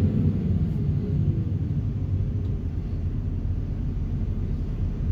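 Excavator diesel engine running steadily with a low rumble, the vibro hammer not working; a faint whine sinks slightly in pitch during the first second or two.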